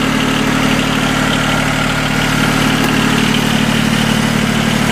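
1981 John Deere 850's Yanmar three-cylinder diesel idling steadily. The freshly serviced engine is running as it should.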